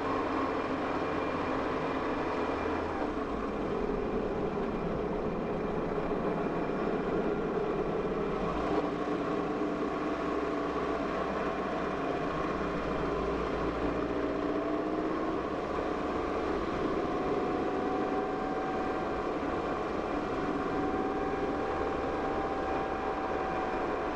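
Car driving slowly, heard from inside the cabin: a steady engine hum and road noise, with the engine's pitch drifting slowly up and down.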